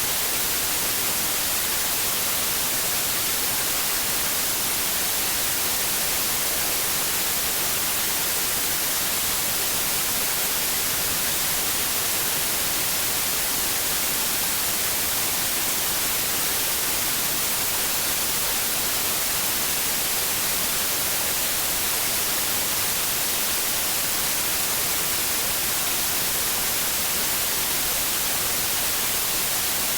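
Steady white noise: an even, unchanging hiss, brightest in the treble, played as a sleep aid for babies.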